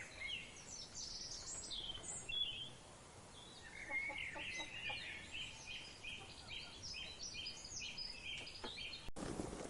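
Many small birds chirping and calling rapidly, short high notes overlapping one another, with a brief lull about three seconds in. Near the end it cuts abruptly to a different, noisier background.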